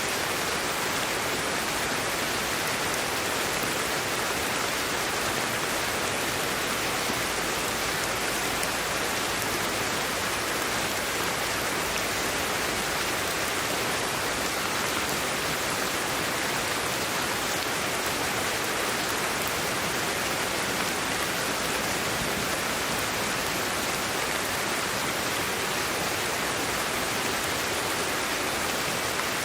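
Sleep-aid white noise: a steady, even hiss, weighted toward the upper middle and treble with little bass, without change or individual drops.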